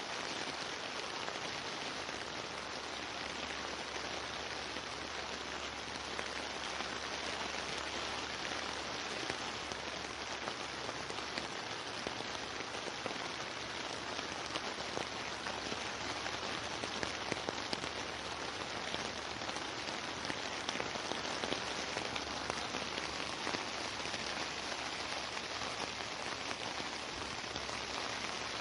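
Steady rain falling: an even, dense hiss with many small individual drop ticks through it.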